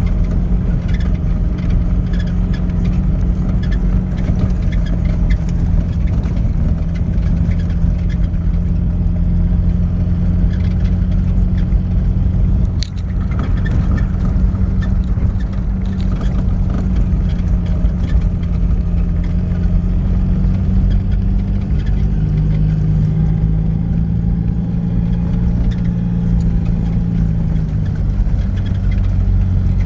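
Niva off-roader's engine running steadily while driving, with a slight rise in pitch about two-thirds of the way through. A brief click and dip near the middle.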